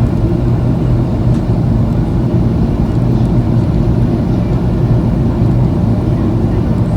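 Steady low rumble of a Boeing 737 airliner in flight on approach, heard from inside the passenger cabin: engine and airflow noise.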